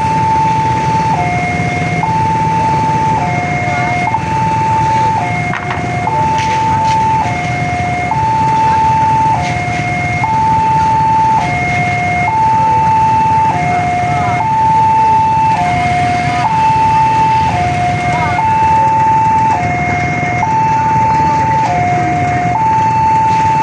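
Railway level crossing warning alarm sounding its electronic two-tone signal, a higher and a lower tone alternating, one cycle about every two seconds. A steady rumble of street traffic runs underneath.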